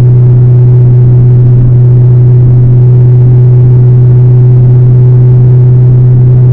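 Straight-piped Dodge Hellcat's supercharged 6.2-litre V8 running at a steady engine speed: a loud, unchanging low exhaust drone with no revving.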